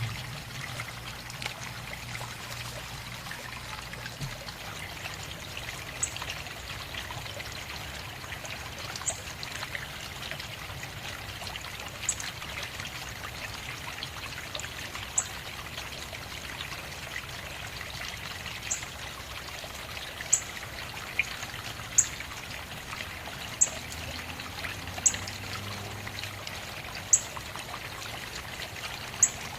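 Water trickling steadily, with short, high-pitched bird chirps every one to three seconds, coming more often near the end.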